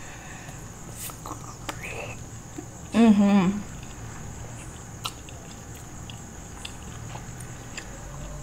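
Close-mic mouth sounds of biting and chewing a soft gulab jamun, with a few wet clicks. About three seconds in comes a short, wavering hummed 'mmm', the loudest sound. A faint steady high whine runs underneath throughout.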